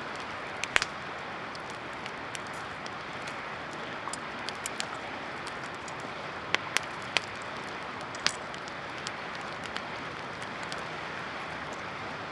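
Campfire of well-dried driftwood burning strongly: a steady hiss with sharp pops and crackles, the loudest pops about a second in and a cluster around six to eight seconds in.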